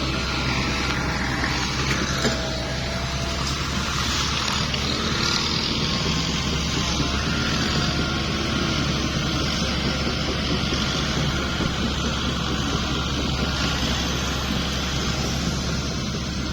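Dump truck's diesel engine running steadily, with a constant low hum.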